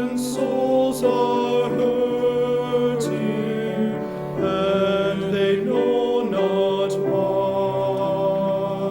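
Slow worship song: a voice holding long sung notes over instrumental accompaniment, changing note every second or two.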